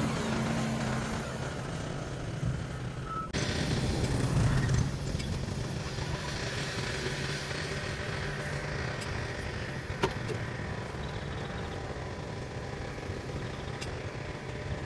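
Heavy machinery engine running steadily, with an abrupt change in the sound about three seconds in and a single sharp click near the middle.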